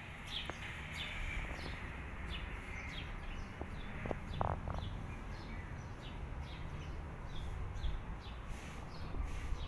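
Small birds chirping over and over in short, falling chirps, over a steady low rumble of outdoor background noise.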